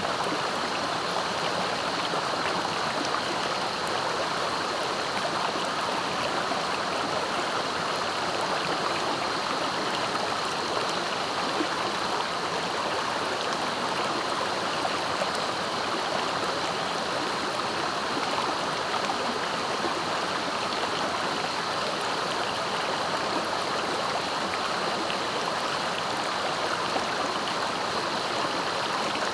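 Fast-flowing river rushing steadily over its bed, an even wash of water noise.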